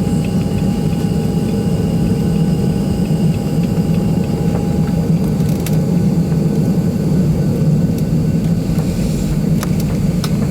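Steady low drone of a Boeing 737-700's cabin while the airliner is readied for departure, with a thin whine that stops about halfway through and a few light clicks later on.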